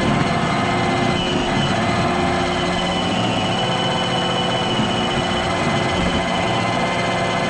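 iRobot Roomba robot vacuum running: a steady mechanical whir from its vacuum motor and brushes, with a thin high whine over it.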